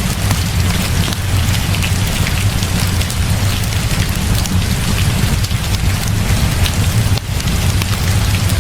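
Heavy rain falling steadily, with a deep low rumble underneath and scattered sharp ticks through the hiss.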